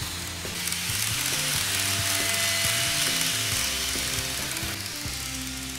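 N-gauge model train, a KATO Class 800, running along the track. Its mechanical running noise grows louder around the middle as it passes close, then eases off. Background music with low changing notes plays under it.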